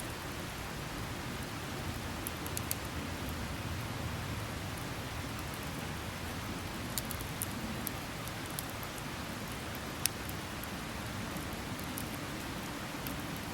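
Wood campfire burning: a steady low rushing hiss with scattered crackles and pops. The sharpest snap comes about ten seconds in.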